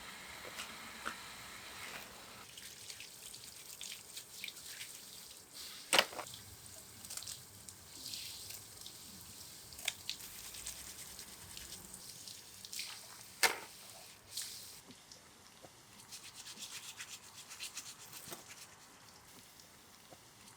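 Intermittent scraping and rubbing with scattered small clicks, and two sharper knocks about 6 and 13.5 seconds in.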